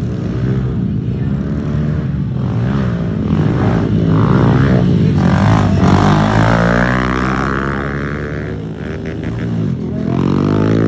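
Several small pit bike engines racing, revving up and down through the gears with their pitches overlapping. The sound swells as they come closer a few seconds in, falls away, then builds again near the end.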